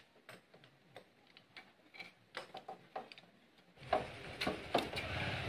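Scattered light clicks and taps of metal tools and parts being handled while a TVS Apache RTR 200 4V engine is taken apart. A background hiss comes up about four seconds in, with a few louder clicks.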